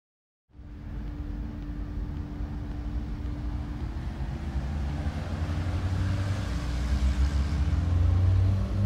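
Minivan taxi's engine running at the curb with street traffic behind it: a steady low hum that starts about half a second in and grows a little louder toward the end.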